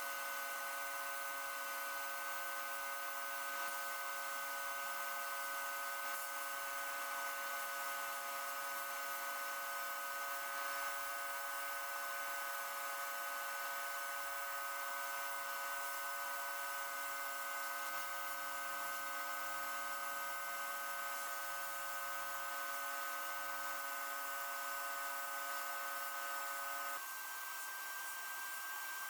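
Electric power tool motor running steadily with a constant whine and hiss; near the end its pitch shifts a little.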